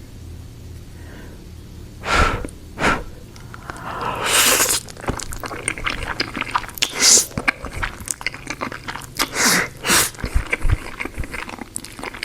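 Close-miked eating of spicy noodles: a few loud sharp slurps or sniffs, then steady chewing with many small wet mouth clicks.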